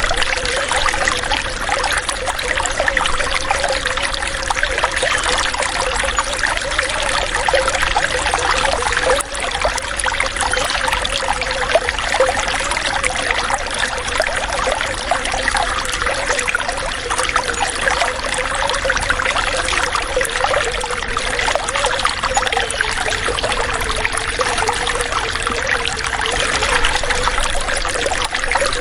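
Running water trickling in a steady, continuous flow, with a fine bubbling texture.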